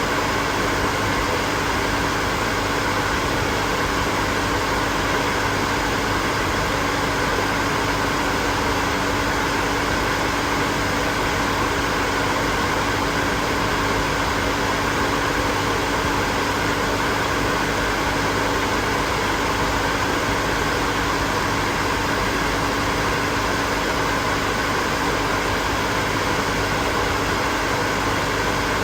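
Hair dryer running steadily: an even rush of blown air over a constant motor hum, with no change in speed.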